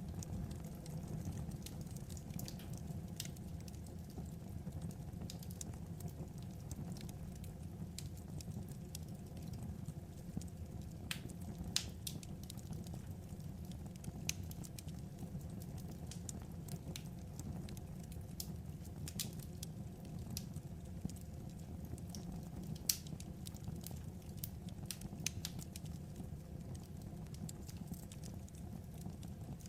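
Wood fire crackling: a steady low rumble with irregular sharp pops and snaps, two of them louder than the rest.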